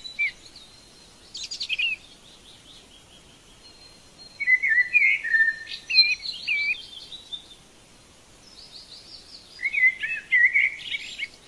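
Wild birds singing in quick chirping, warbling phrases. They come in three bouts: a short one about a second and a half in, a longer one from about four and a half to seven seconds, and another near the end.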